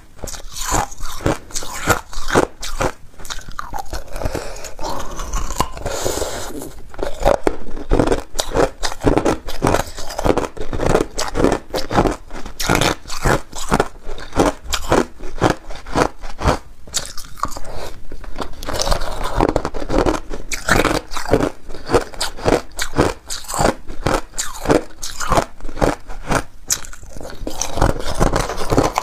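A person biting and chewing ice, with loud, rapid crunching and cracking that runs on without a break.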